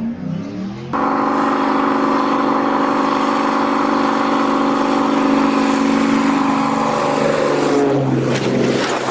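Engine of a low-flying aircraft coming in to land on a road, a loud steady drone with many tones that drops in pitch near the end as it passes.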